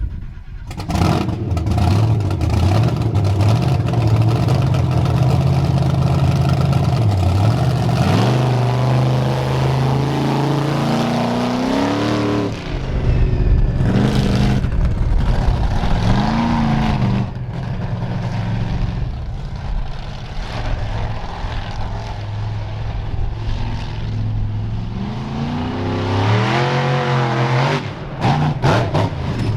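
Bigfoot 18 monster truck's engine running loud, revving up and back down several times with pitch glides between steady stretches.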